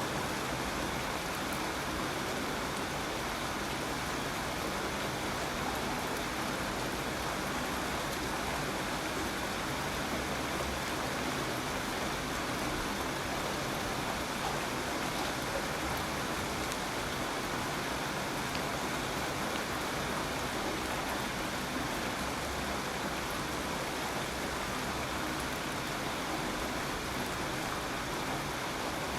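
Steady rainfall, an even hiss of rain without changes or distinct drops standing out.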